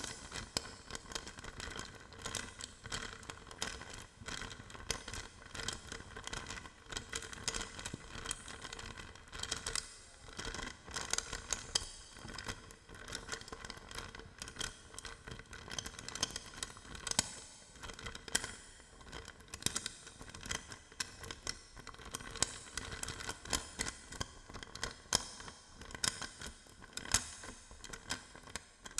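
Hodo balls handled close to the microphone as ASMR triggers: a dense, irregular stream of small hard clicks and taps, with a faint steady ringing underneath.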